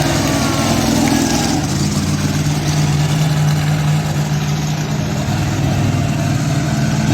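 Monster truck engine running steadily at a fairly even speed, loud and low-pitched.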